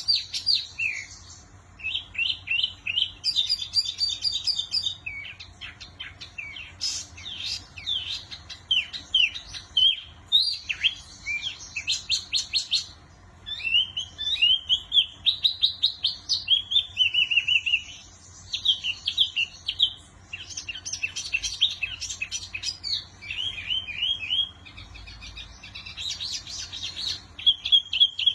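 Small songbird known in the Indonesian bird trade as the wambi mini singing continuously: quick runs of high, chirping and twittering notes in varied phrases, broken by short pauses.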